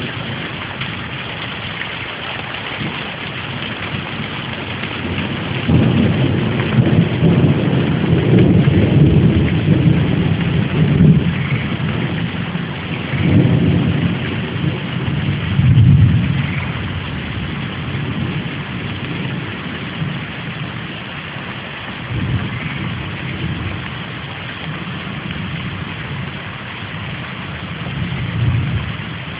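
Heavy rain falling steadily, with thunder rumbling in long rolls that swell up several seconds in, are loudest around the middle and then die back to the rain.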